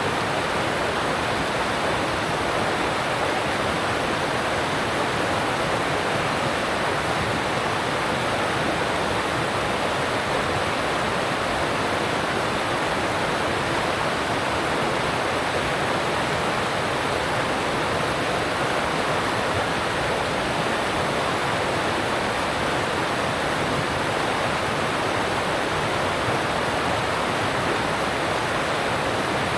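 Alpine stream rushing over rocks: a steady, even rush of water.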